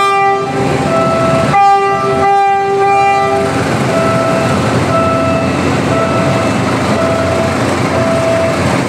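Philippine National Railways train sounding its horn in several blasts over the first three and a half seconds as it passes, over the rumble and clatter of wheels on rail. A level-crossing warning signal beeps on in a steady alternating two-note pattern.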